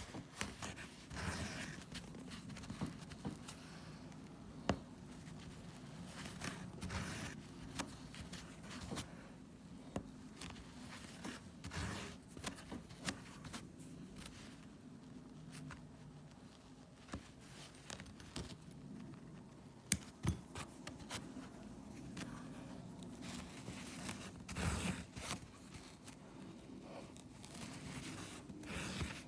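Hand repair work on a wool rug: irregular scratching, rustling and pulling sounds of yarn and tools against the pile, with scattered small clicks and one sharp click about twenty seconds in, over a low steady hum.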